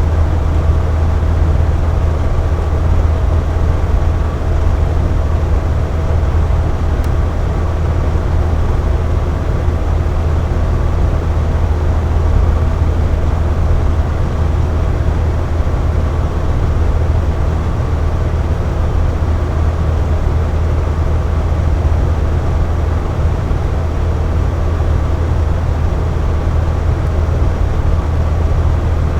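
Box fan running steadily: an even rushing of air over a low hum, with a few faint steady tones, unchanging throughout.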